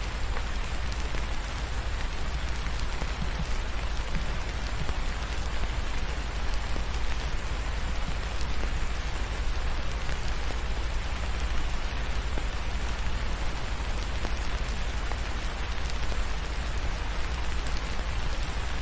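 Steady rain falling on a surface, an even hiss with faint scattered drop ticks over a constant low rumble.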